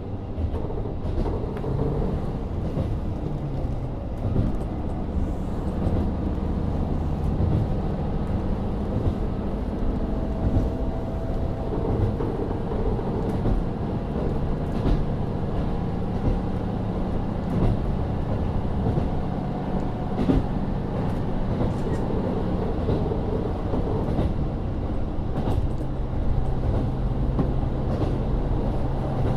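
Running sound heard from inside a KiHa 40 350-series diesel railcar under way: its N-DMF13HZB diesel engine runs steadily over the noise of the wheels on the rails, with scattered light clicks.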